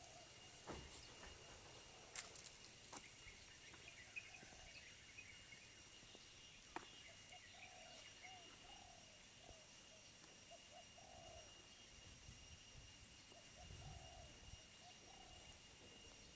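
Faint birdsong: a bird repeating short, low notes in quick runs, with a few light clicks.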